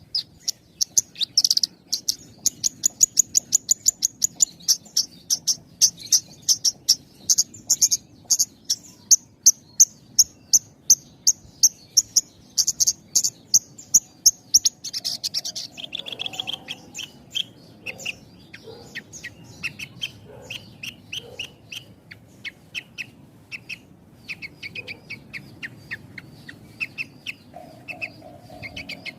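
Javan bush lark (branjangan) singing a rapid series of short, high chirps, several a second with only short pauses between them. About halfway through the song shifts to lower, more varied notes.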